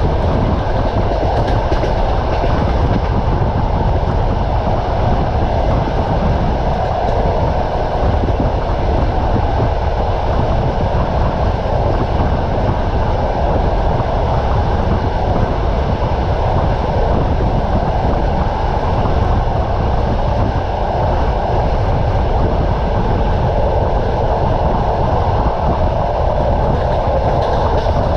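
Train running steadily along the rails, the wheels giving a continuous rumble and clatter.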